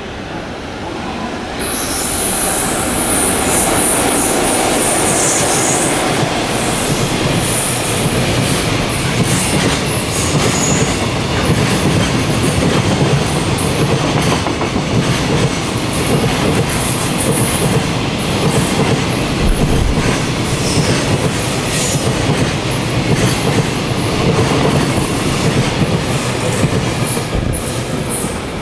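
Freight train hauled by an EF66 electric locomotive passing at speed: a sudden rise about two seconds in as it arrives, with a high hissing squeal for a few seconds, then the steady rumble and clatter of the wagons' wheels over the rails.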